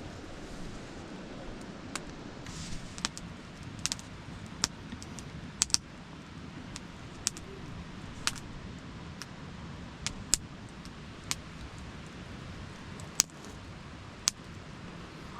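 Wood campfire crackling: sharp, irregular pops over a steady low rush of the fire.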